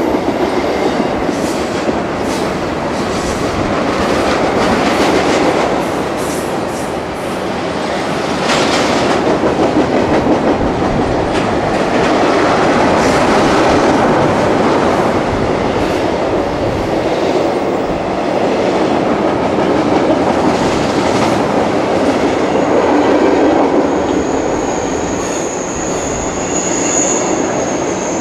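CSX intermodal freight train cars rolling past with a steady loud rumble and repeated clacks of wheels over the rail joints. A thin high wheel squeal joins in near the end.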